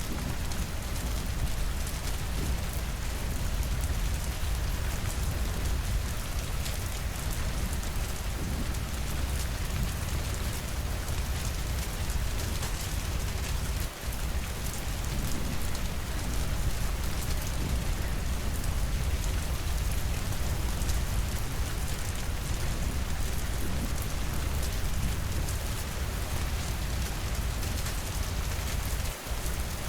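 Steady rain falling, an even hiss with a deep rumble underneath. It cuts out for an instant about halfway through and again near the end.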